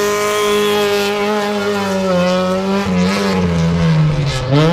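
Rally car engine revving hard at high rpm as the car slides through a turn and pulls away, the pitch dropping sharply and climbing again near the end.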